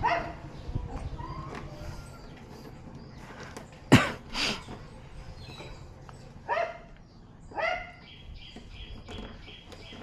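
A dog barking a few short times, with a sharp knock about four seconds in and quick high repeated chirps near the end.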